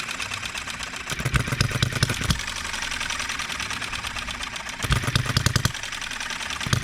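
Enjomor 6cc hit-and-miss model engine running: short bursts of firing strokes, about a second in and again about five seconds in, with rapid ticking as it coasts between them. It is not yet firing evenly while its timing is being tuned.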